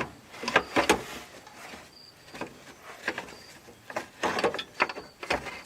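Irregular clunks, knocks and scraping of metal parts as a replacement air-conditioner condenser fan motor is pushed and worked into place in a Subaru Sambar kei truck, its shaft catching on the radiator pipe.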